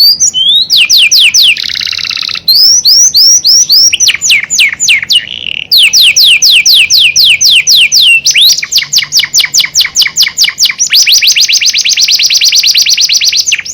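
Canary singing continuously and loudly in rolling phrases of rapidly repeated downward-slurred whistled notes. Each phrase changes speed, with a short buzzy roll about two seconds in and a very fast trill near the end.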